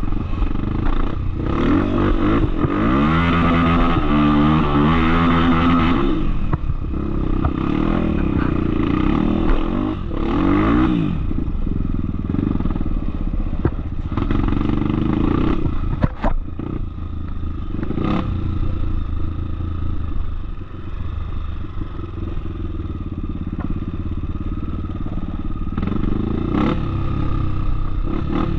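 Off-road trail motorcycle engine running under varying throttle, its pitch rising and falling repeatedly in the first ten seconds or so, then steadier. A few sharp knocks and clatter come through, the clearest about sixteen and eighteen seconds in.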